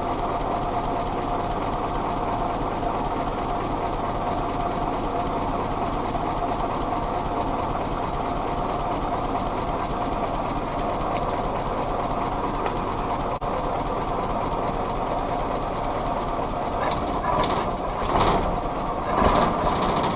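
Willys L134 Go Devil four-cylinder flathead engine running steadily at idle, with its distributor's vacuum advance disconnected. It gets louder and rougher for the last few seconds, then cuts off suddenly.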